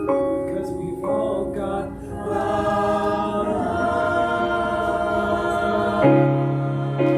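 Several voices singing together in held harmony over keyboard accompaniment, with fresh chords struck about six seconds in and again near the end.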